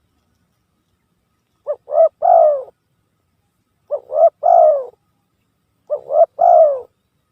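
Spotted dove (tekukur) cooing its three-note call three times, about two seconds apart: two short notes and then a longer falling note. It is a recorded lure call for drawing in doves.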